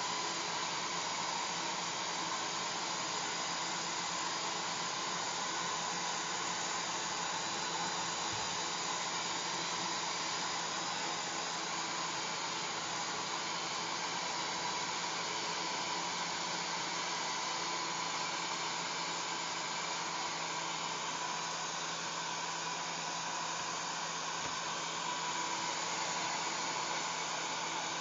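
Hair dryer running steadily: an even rush of blown air over the motor's faint steady hum.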